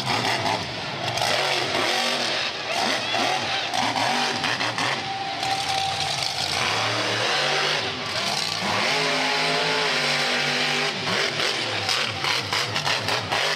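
Monster truck's V8 engine revving hard, its pitch rising and falling again and again.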